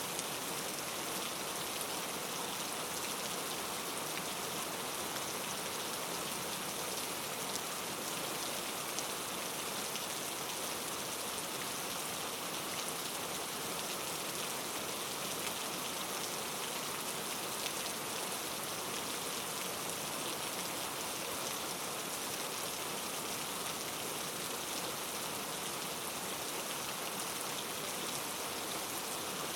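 Steady rain falling, with a dense, even hiss of drops and faint scattered patter.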